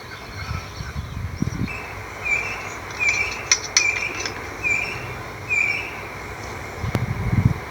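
A bird chirping over and over in short, clipped calls, roughly one every second or less through the middle, with low thuds near the start and again near the end.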